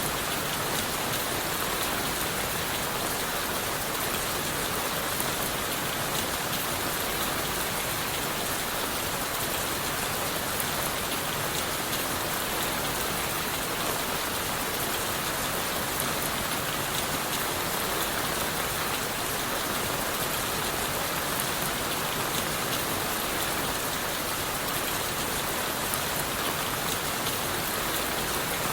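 Steady rain falling on leaves and wood in a forest: an even, unbroken hiss with scattered drop ticks.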